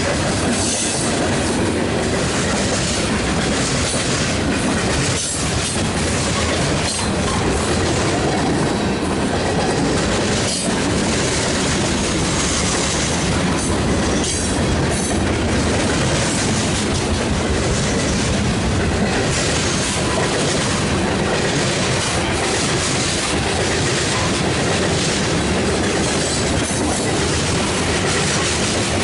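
Cars of a mixed freight train rolling past close up: a steady, loud noise of steel wheels running on the rails, with a few sharp clanks now and then.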